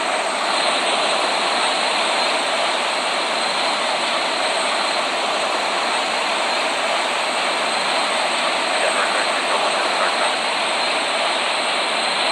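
Boeing 787 jet engines and airflow making a steady, even rush with a faint high whine, holding constant throughout.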